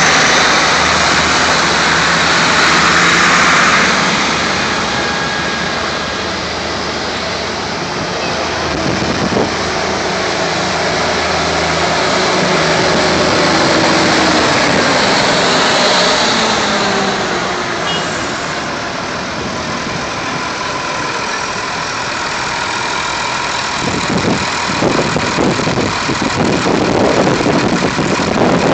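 Vintage tractor engines running, the sound swelling and easing as they go by. A rougher, pulsing engine comes in close near the end.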